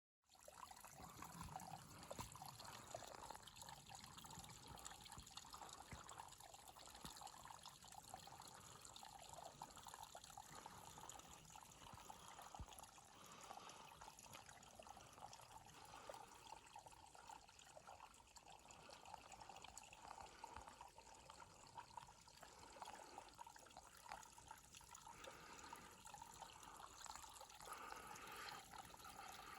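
Faint, steady trickle of running water, like a small stream, with small splashes and ticks scattered through it.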